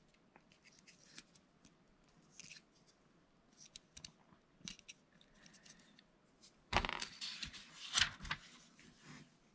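Small plastic Lego pieces being handled: scattered light clicks and rustles, then a louder clatter of loose pieces lasting about two seconds, starting near seven seconds in.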